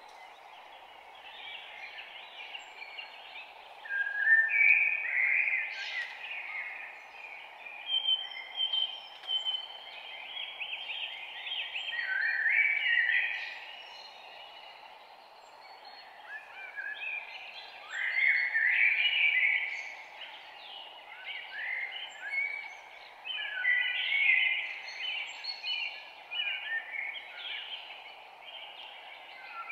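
Several songbirds singing and chirping in a morning chorus, short trills and whistles overlapping in loud bursts every few seconds over a steady faint background hiss.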